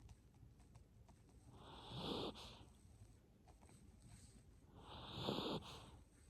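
Miniature Pinscher snoring faintly: two slow snoring breaths about three seconds apart, each under a second long.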